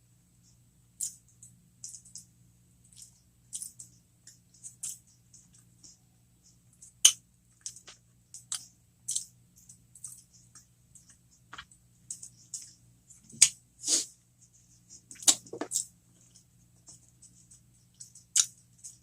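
Close-miked eating of breadcrumb-coated cheeseburger jalapeño poppers: irregular crunches and wet mouth clicks while chewing, a few of them louder about halfway through.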